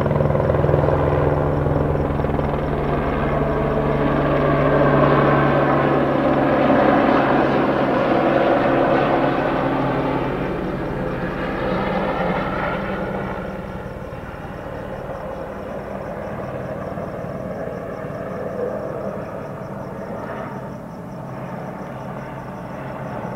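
Police helicopter hovering low overhead: a steady rotor beat and turbine noise, low enough to make the house rumble. It grows quieter from about halfway through.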